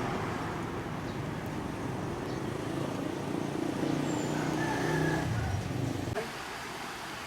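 A motor vehicle's engine running with a low rumble, which drops away suddenly about six seconds in.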